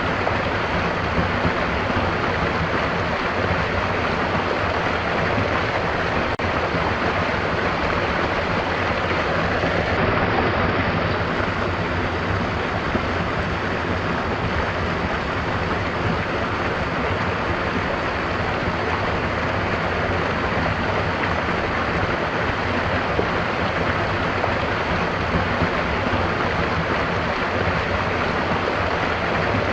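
Stream water rushing and babbling in a steady, continuous wash.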